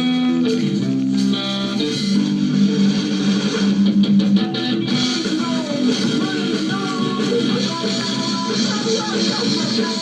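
Rock music led by guitars, playing steadily throughout.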